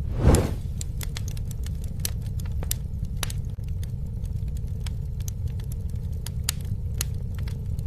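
Campfire burning: a steady low rumble of flame with scattered sharp crackles and pops from the wood. A brief louder rush comes about a third of a second in.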